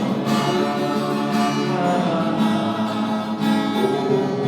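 Acoustic guitar strummed and played between sung lines of a song.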